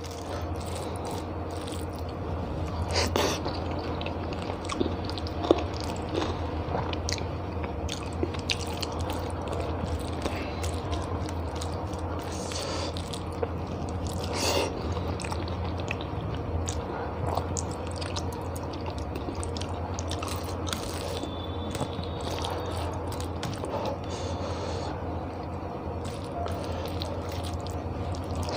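Close-miked chewing and mouth sounds of a person eating rice and egg curry by hand, with scattered clicks and an occasional crunch, over a steady low hum.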